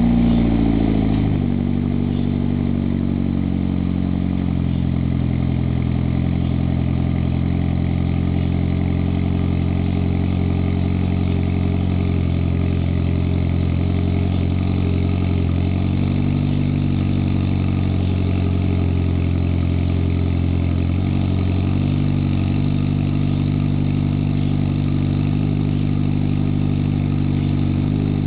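Mitsubishi Lancer Evolution X's 2.0-litre turbocharged four-cylinder, breathing through an aftermarket test pipe, downpipe and cat-back exhaust, settles from its start-up flare in the first second or two into a steady idle. The exhaust note is deep and not very loud, and the idle speed shifts slightly a few times.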